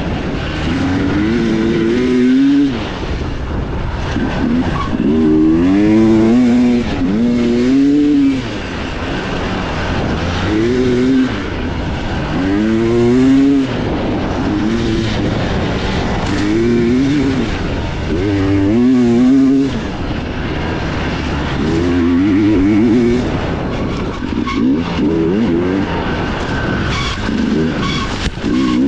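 Dirt bike engine heard close up from on board, revving up and falling back over and over as the throttle is opened and closed and gears change, with several brief drops where the throttle is shut off.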